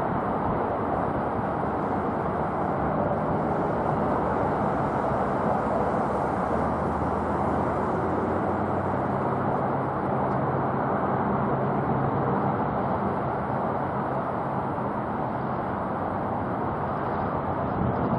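Four-engine jet noise of a Boeing 747-400 freighter flying in to land, a steady rumble with faint low tones that drift slightly in pitch.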